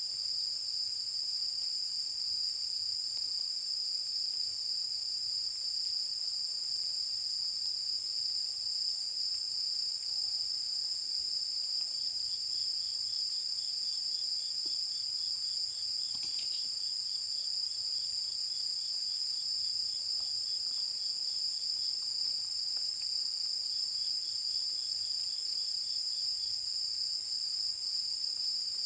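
Night chorus of insects: a steady, high-pitched continuous chirring, with a lower-pitched pulsing trill that joins in about twelve seconds in and drops out and returns near the end.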